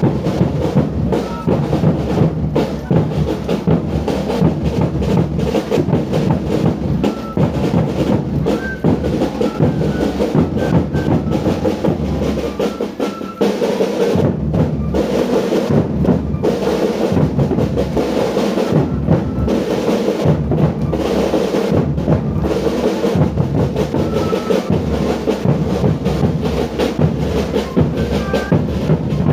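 Drum-led music: bass drum and snare-type drums beating steadily and densely.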